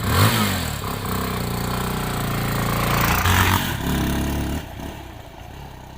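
Motorcycle engine revving up and running steadily, with a second rise in revs about three seconds in, then growing fainter.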